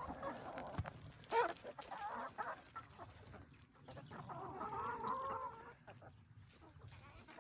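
Chickens clucking and calling at low level, with scattered short calls and a longer run of pitched calls in the middle.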